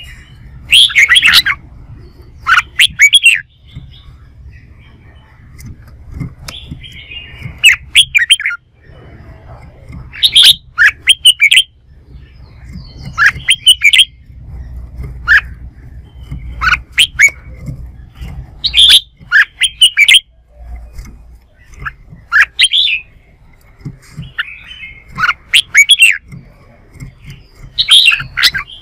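Red-whiskered bulbul singing loud, short, warbling phrases in clusters every two to three seconds: full-voiced competitive song.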